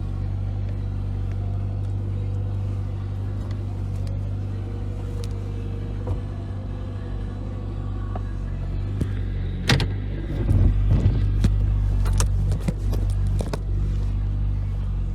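1991 Honda Accord LX's F22A1 four-cylinder engine idling steadily, with a run of clicks and knocks starting about ten seconds in.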